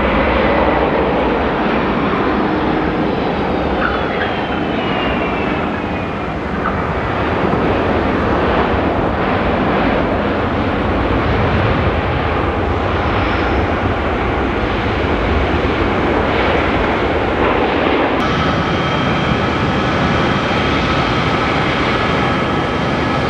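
Airliner jet engine noise, loud and steady, with a falling whine a few seconds in. About eighteen seconds in the sound changes abruptly to another engine noise carrying steady whining tones.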